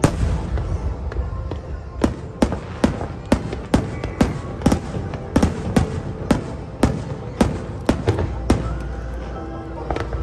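Aerial fireworks shells bursting in a quick run of sharp bangs, about two to three a second, easing off near the end, with music playing behind them.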